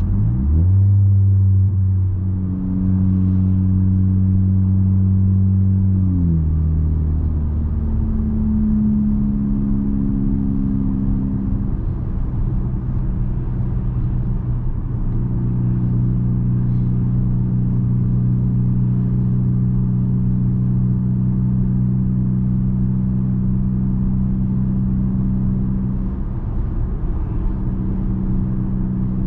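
Straight-piped 2020 Nissan Altima's exhaust under acceleration, heard from inside the cabin with the rear windows down. The note rises as it pulls, drops a step about six seconds in as the transmission shifts up, and then settles into a steady cruising tone.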